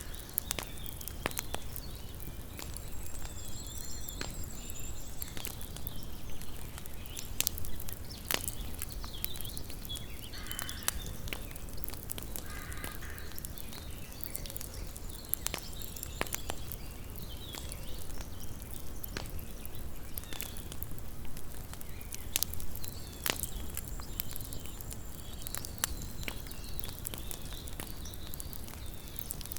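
Small wood campfire crackling, with frequent sharp pops scattered throughout. Two short harsh cries come near the middle.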